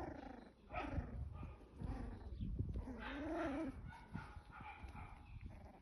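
Cavalier King Charles spaniel making a few short whining vocalizations, the longest one about three seconds in, rising and then falling in pitch.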